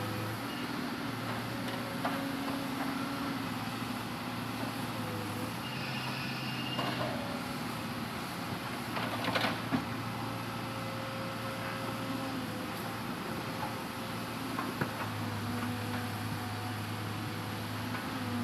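Hitachi Zaxis 200-5G excavator's diesel engine running steadily, its hum stepping up and down as it works, with a few sharp knocks about halfway through.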